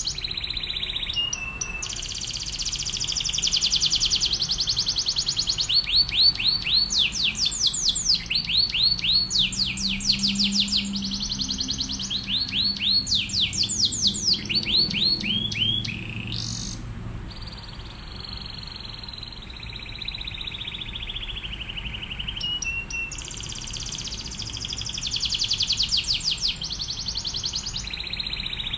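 Domestic canary singing a long, continuous song of rapid trills: rolls of fast repeated sweeping notes, like machine-gun bursts, then a softer drawn-out slightly falling note in the middle, and a dense buzzy trill again near the end.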